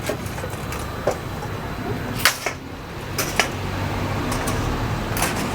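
Kitchen clatter at a food stall: a handful of sharp clicks and knocks, likely utensils and containers being handled. The loudest comes a little past two seconds in. Under them runs a steady low background hum.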